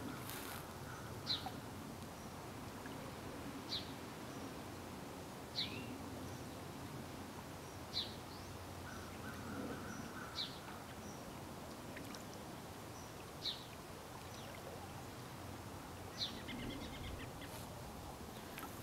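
A songbird calling with single short, high, falling chirps, about seven in all, spaced two to three seconds apart, over a steady low hiss of open-air ambience.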